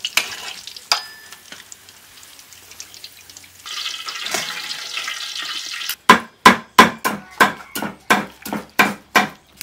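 Slabs of pork frying in hot oil, sizzling and crackling, louder after a few seconds. Then a run of about ten sharp, evenly spaced knocks, roughly three a second.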